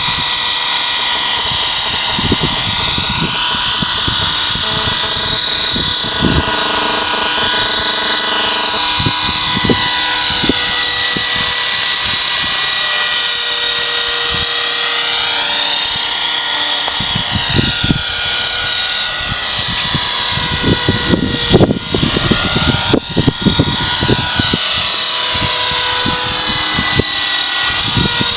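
Blue Ray 450 radio-controlled helicopter whining steadily in flight, its pitch sliding up and down as it manoeuvres, with strong gusty wind rumbling and buffeting on the microphone.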